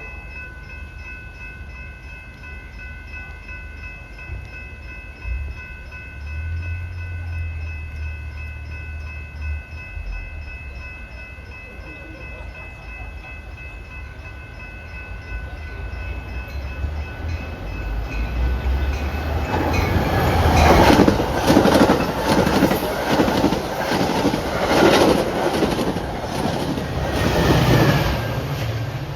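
A train passing through the station without stopping: a low rumble builds as it approaches, then from about two-thirds in it goes by loud and close, wheels clattering over the rail joints. Steady high ringing tones sound over the first part.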